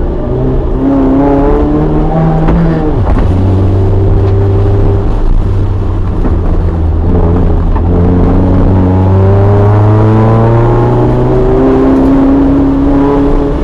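Toyota AE86 Corolla's 4A-GE four-cylinder engine running hard through an autocross course, its pitch repeatedly climbing under acceleration and dropping off sharply about three seconds in and again later in the run.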